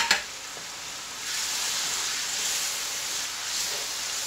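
Crushed tomatoes sizzling in hot oil and ghee in a steel wok as they are stirred with a wooden spatula. A sharp knock at the very start, then the sizzle grows louder a little over a second in and holds steady.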